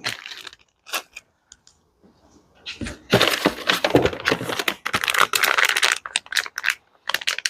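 Plastic packaging crinkling and small hardware clicking as a box of parts is rummaged through, busiest in the middle with scattered clicks before and after.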